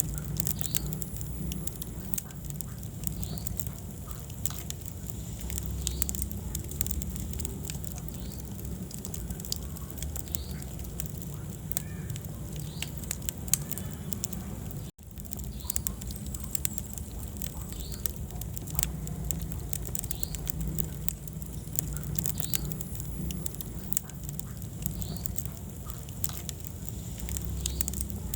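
Wood-burning fireplace fire crackling, with frequent sharp pops over a steady low rumble of the flames. The sound cuts out for an instant about halfway through.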